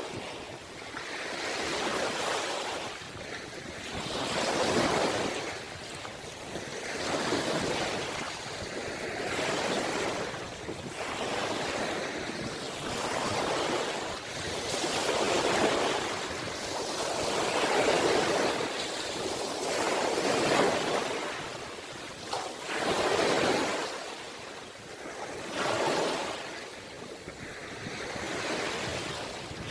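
Ocean surf: waves breaking and washing in, the rush of water swelling and falling away every two to three seconds.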